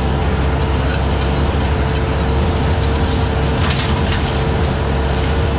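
Skid steer engine running steadily under load with its 72-inch brush cutter spinning, a steady whine over the engine hum. A couple of short cracks of brush or wood snapping about four seconds in.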